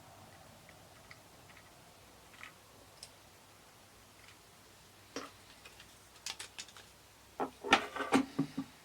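Light clicks and taps of small parts being handled on an instrument cluster. They are sparse at first, then come in a quick run of sharper clicks near the end.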